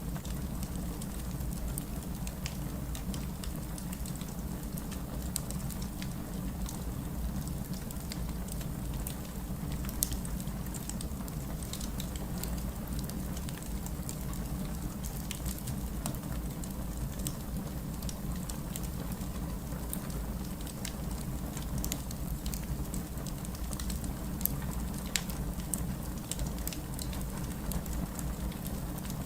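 Steady heavy rain mixed with a crackling wood fire: a continuous low rush with scattered sharp crackles and pops throughout.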